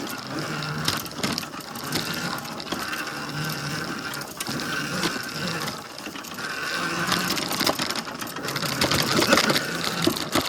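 Electric dirt bike riding over rough trail: the motor and drivetrain whine, rising and falling with the throttle, over frequent rattles and knocks from the bumps.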